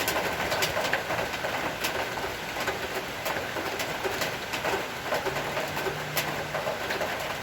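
Rain falling steadily as an even hiss, with many irregular sharp drip clicks. A brief low hum comes in about five seconds in and stops a second and a half later.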